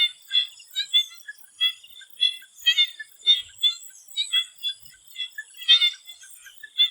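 Chorus of swamp frogs giving short, repeated calls, several a second and overlapping, over a steady high-pitched whine.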